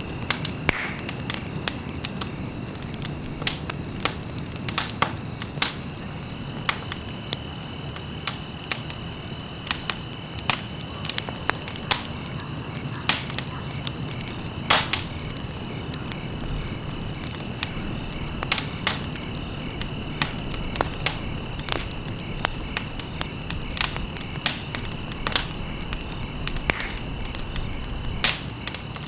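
Wood fire crackling: irregular sharp pops and snaps over a low steady rumble, with one louder pop about halfway through. A steady high-pitched tone runs underneath.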